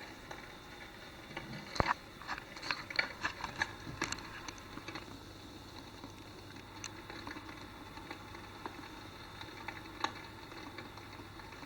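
Wood fire crackling in a homemade fireplace: scattered sharp pops and crackles, bunched together about two to four seconds in, with a few single pops later.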